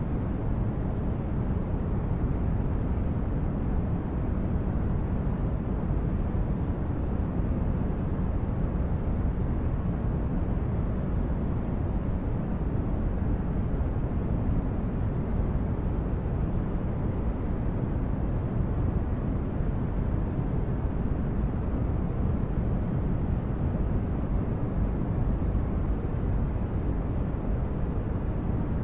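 Steady, deep rumbling noise, heaviest in the bass and unchanging throughout: a synthetic spaceship engine-room ambience built from brown noise.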